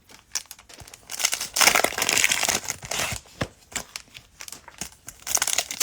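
Cellophane wrapper of a football trading card cello pack crinkling and tearing as it is ripped open and handled, in bursts of rustling with sharp clicks, loudest about a second and a half in.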